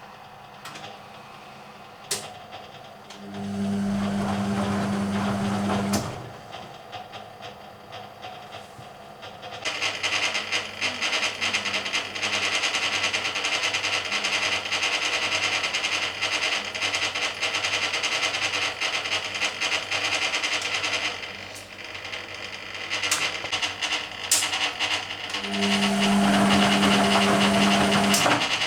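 Hoover Keymatic A3112 washing machine in its first rinse. The drive motor hums steadily in two bursts of about three seconds, one a few seconds in and one near the end, as the stainless steel drum tumbles the load. Between them comes a long stretch of water sloshing and splashing in the drum.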